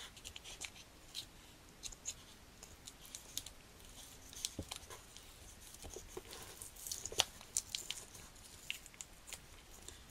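Faint, irregular clicks and light rustles of small plastic model-kit parts being handled.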